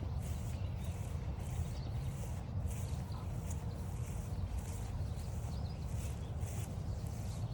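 Footsteps crunching along a trail at about two steps a second, over a steady low rumble, with a few faint bird chirps.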